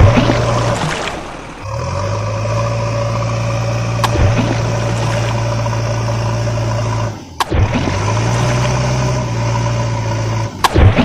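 Truck engine sound effect running at a steady idle. It cuts out and restarts twice, with sharp clicks at the joins.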